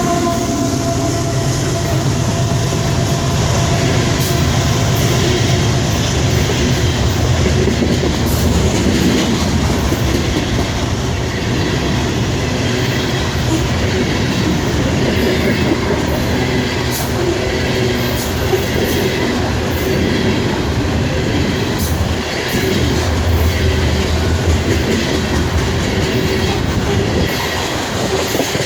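Coal train's cars rolling past steadily, wheels clicking over the rail joints again and again.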